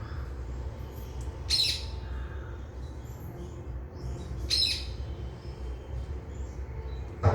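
Parrots giving two short, harsh squawking calls about three seconds apart, with fainter softer bird calls between them, over a steady low rumble.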